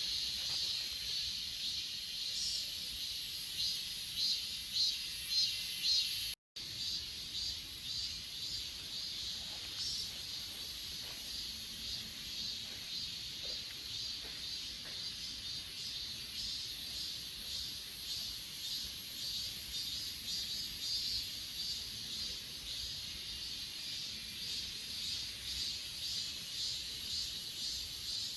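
Chorus of grass insects, crickets among them, chirping in steady rapid pulses. The sound cuts out completely for a split second about six seconds in.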